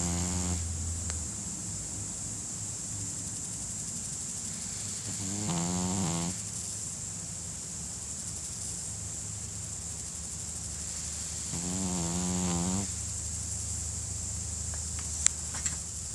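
Pekingese dog snoring in its sleep: a pitched snore about a second long, coming roughly every six seconds, three times. Two sharp clicks near the end.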